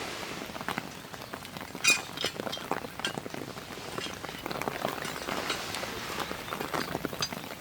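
Rain falling steadily, with many separate drops ticking on a surface and one louder tap a little under two seconds in.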